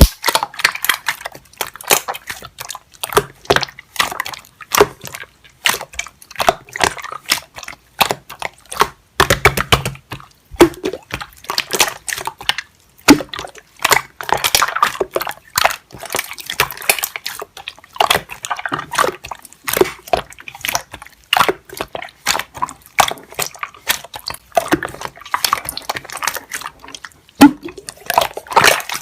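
Rapid, irregular clicks and taps, several a second, continuing throughout.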